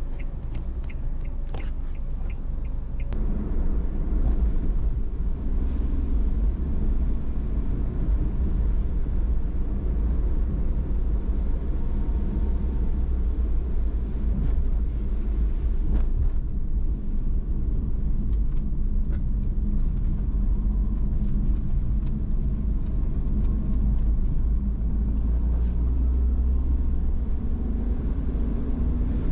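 Car driving along a road, heard from inside the cabin: a steady low rumble of tyres and engine that grows louder about three seconds in as the car picks up speed.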